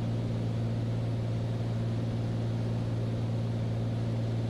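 Beechcraft Bonanza's six-cylinder piston engine and propeller droning steadily in the cockpit, an even low hum with a strong steady tone.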